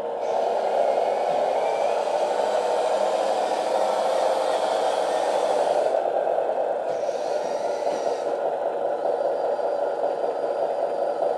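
Capo 1/18 Tatra RC truck driving: a steady whir from its electric drive motor and gears, mixed with the simulated engine sound played by its sound module.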